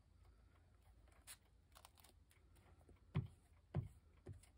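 Quiet room tone with a few soft taps and light handling of paper pieces on a work table, the clearest two knocks about three and four seconds in.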